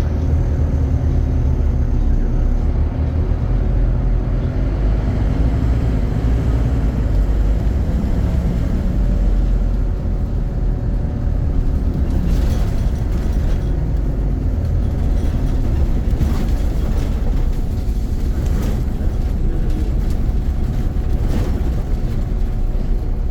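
Scania CN270UB city bus running with a steady low engine drone, with a few short clatters in the second half.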